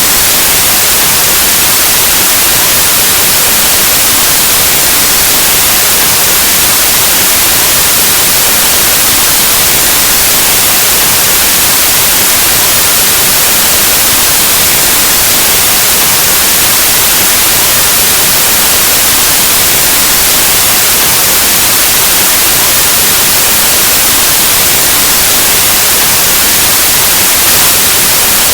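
Steady, loud white noise: a static hiss spread evenly across all pitches, like an untuned analog TV or radio, with no change throughout.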